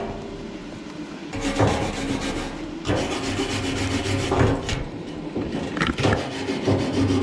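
Wire brush rasping over a freshly laid stick weld, scrubbing off slag in repeated strokes of a second or two each. Under it runs a steady low hum.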